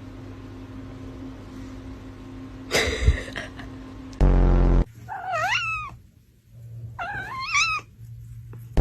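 A cat meowing twice in long, wavering calls that rise and fall in pitch. Before the meows there is a short, loud, low musical hit.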